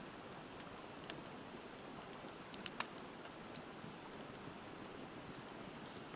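Wood fire crackling, with a sharp pop about a second in and a quick cluster of pops near three seconds, over the steady rush of a river.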